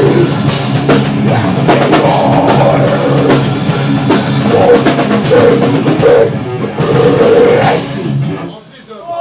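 Live thrash/death metal band playing at full volume, with pounding drums and distorted guitars. The music stops about eight and a half seconds in and the sound falls away.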